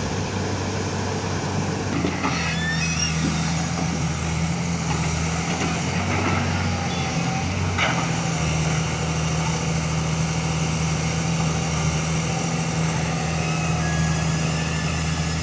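Heavy diesel engine running steadily, with two sharp knocks, about two seconds in and near the middle.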